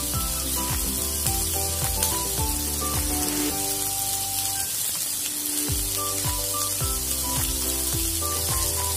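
Diced vegetables (onion, capsicum, tomato, paneer and sweet corn) sizzling as they lightly fry in hot oil in a kadhai, under background music with a beat about twice a second that drops out briefly around the middle.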